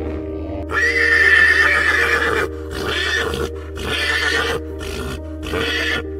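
Horse whinnying: one long high call starting just under a second in, then three shorter bursts, over steady background music.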